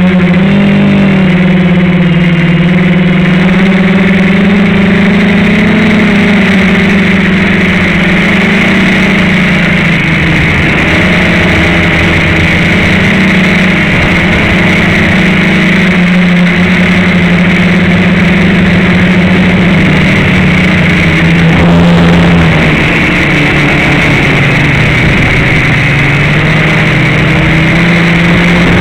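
FPV quadcopter's electric motors and propellers whining loudly, picked up close by the onboard camera. The pitch wavers up and down with the throttle, with a brief louder surge about two-thirds of the way through.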